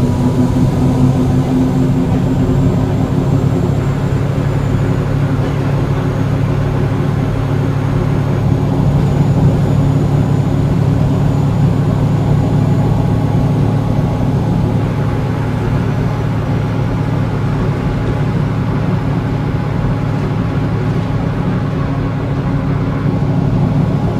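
Volvo B7L bus's six-cylinder diesel engine running steadily as the bus drives along, heard from inside the bus, with a faint high whine over it.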